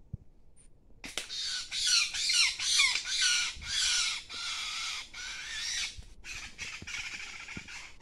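A wild bird in the tree canopy giving a rapid series of harsh, raspy calls, about three a second, starting about a second in and growing weaker near the end.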